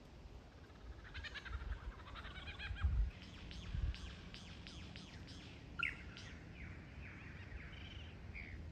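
Lyrebird singing a varied song: a rapid trill, then a run of quick downward-sweeping notes and warbling phrases, over low thuds.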